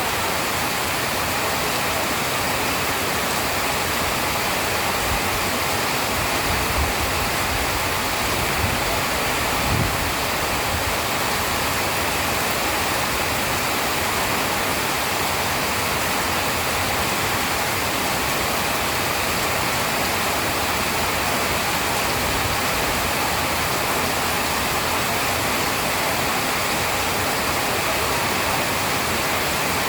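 Steady heavy rainfall, an even dense hiss, with a few low rumbles of distant thunder about a third of the way in.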